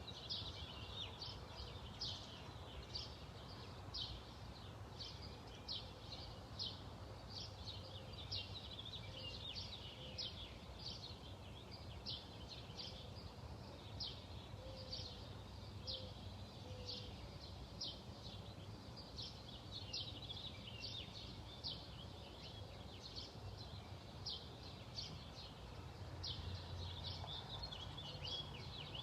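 Small bird chirping over and over, short high chirps about two a second, over faint outdoor background noise.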